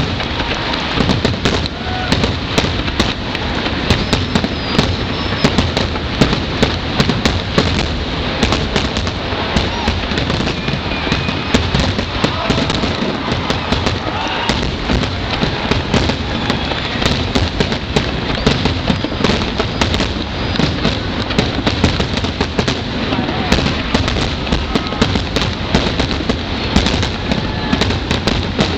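Fireworks finale: a dense, continuous barrage of shell bursts and crackling reports going off in rapid succession, with crowd voices underneath.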